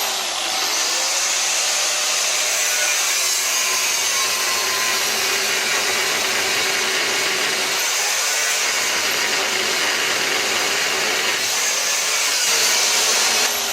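Angle grinder cutting into a 16 mm square steel bar, running steadily with an even, hissing cutting noise throughout.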